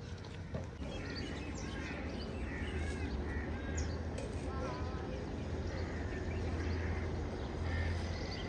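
Several birds chirping and calling in short notes that rise and fall, over a steady low rumble.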